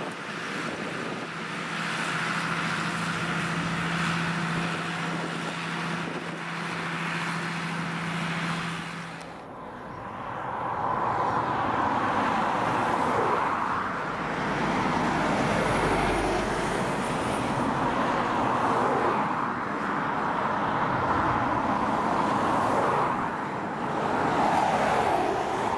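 Trains running along the line below, heard at a distance. For the first ten seconds there is a steady low hum. After an abrupt change it gives way to a louder, rough rumble from a diesel freight train and its rolling wagons, which swells and fades in slow waves.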